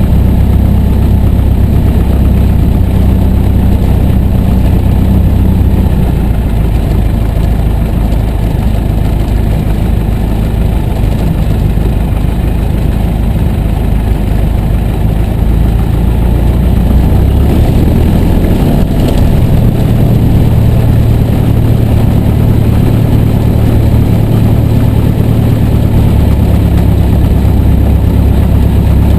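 A Piper J3 Cub's Continental A-65 four-cylinder air-cooled engine and propeller running steadily at low power. The engine note shifts slightly about six seconds in and again around eighteen seconds in.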